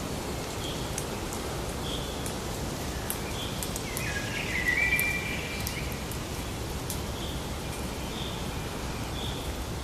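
Forest ambience: a steady hiss of background noise with a short high chirp repeating about once a second. A louder bird call is heard a little before the middle and lasts about a second and a half.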